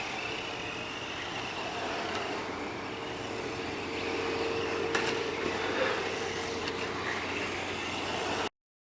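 Electric RC cars running on a dirt track: a motor whine rising and falling in pitch with the throttle, over a hiss, cutting off suddenly near the end.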